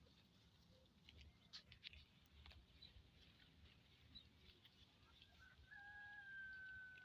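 A faint, distant rooster crow held for about two seconds near the end, over quiet rural background with a few faint ticks earlier.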